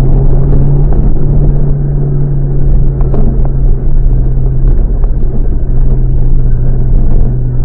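Car exhaust through an aftermarket HKS Silent Hi-Power muffler, droning steadily at near-constant revs while driving.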